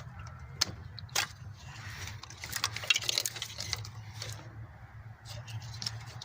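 Scattered clicks and light rattles of a plastic wiring harness and its connectors being handled and moved in a car's engine bay, over a steady low hum.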